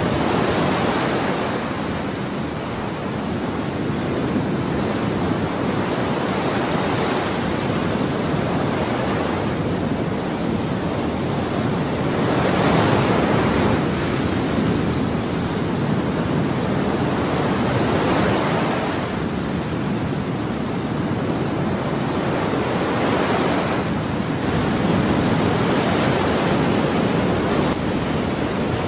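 Ocean waves breaking and washing ashore as a continuous rush of surf that swells louder every few seconds as each wave breaks.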